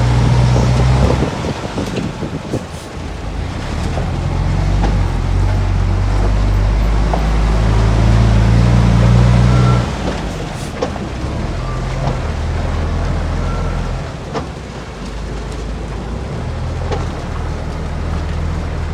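Heavy diesel engine of earth-moving machinery running, louder and harder-working for several seconds before easing off abruptly about halfway through, with scattered metallic clanks.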